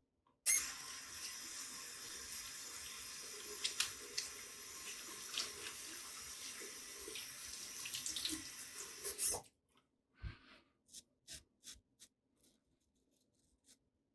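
Water tap running into a sink for about nine seconds, then turned off abruptly, followed by a string of short, soft sounds.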